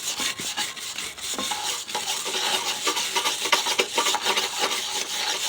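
Hand wire brush scrubbing bare steel in quick, irregular scratching strokes, cleaning the surface so a layout mark shows.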